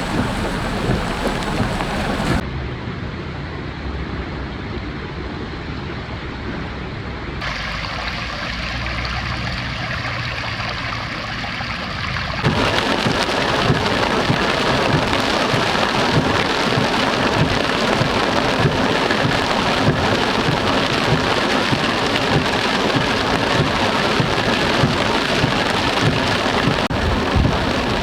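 Heavy rain falling hard in a torrential thunderstorm. It goes abruptly quieter and duller about two seconds in, then comes back louder and fuller about twelve seconds in.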